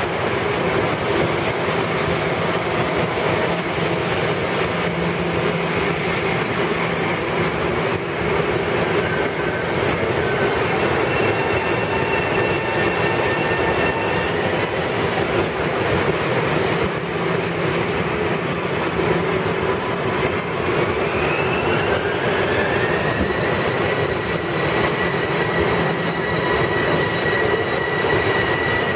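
Bombardier M7 electric multiple unit moving along the platform: a steady rumble of wheels on rail with a faint electric whine. About three-quarters of the way through, the whine rises in pitch and then holds.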